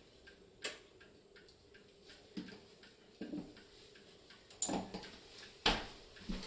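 Light clicks and knocks, about six of them at uneven intervals, the louder ones near the end, over a faint background.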